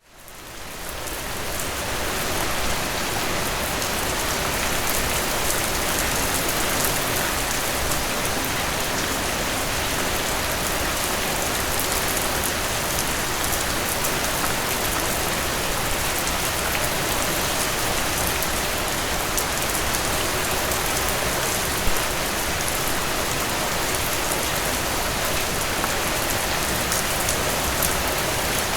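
Heavy rain falling steadily, a dense even hiss of drops that fades in over the first couple of seconds.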